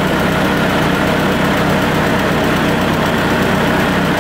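Turbocharged Honda D16Y8 1.6-litre four-cylinder engine idling steadily, with its electric cooling fan running.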